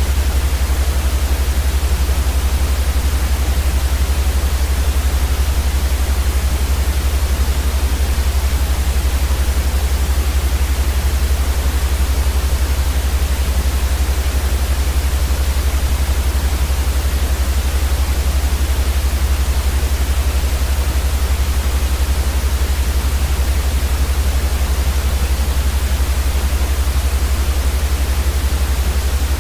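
Steady generated white noise for sleep: a continuous, unchanging hiss across all pitches, with its loudest part a deep rumble at the very bottom.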